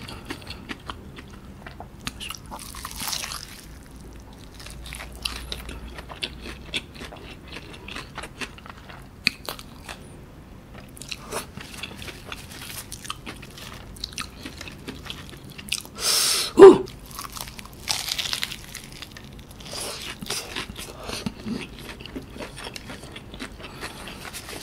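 Close-miked chewing and crunching of a KFC Cheezilla Double Down, its crisp fried-chicken breading crackling between the teeth in many small clicks. One much louder sudden noise comes about two-thirds of the way through.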